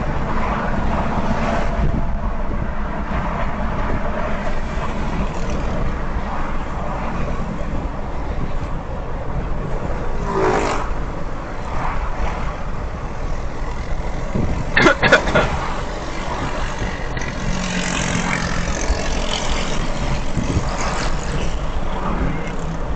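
Steady road and engine noise of a car driving at highway speed, with a brief louder sound about ten seconds in and a short, sharp, louder sound about fifteen seconds in.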